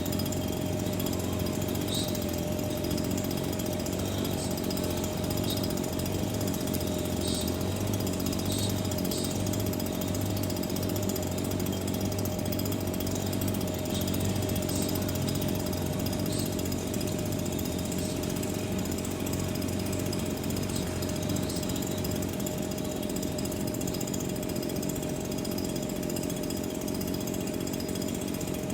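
A steady mechanical drone with a constant hum and a held mid-pitched tone, and faint sharp ticks scattered through it.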